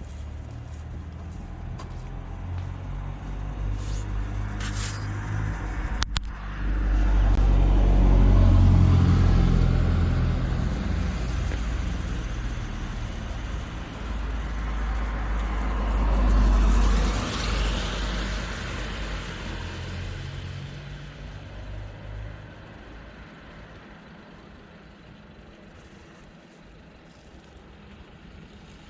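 Motor vehicles passing close by. A deep engine rumble swells and fades twice, loudest about a third and about halfway in, then dies away; there is a sharp click about six seconds in.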